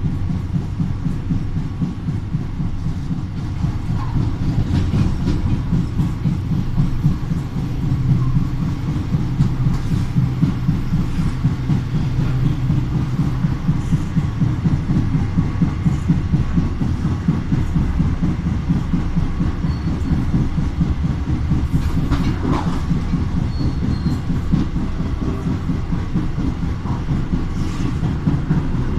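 SNCFT passenger train running along the track: a steady low rumble with fast, regular wheel-on-rail clatter. A sharper click or squeal stands out about two-thirds of the way through.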